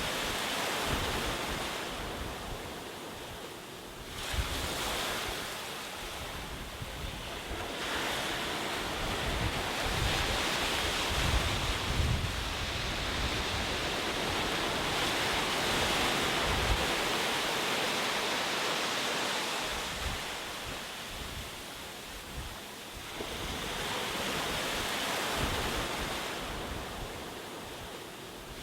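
Ocean waves surging and washing onto a shore in slow swells: one rises about four seconds in, a long stretch of surf builds from about eight seconds to past the middle, and another swell comes in near the end.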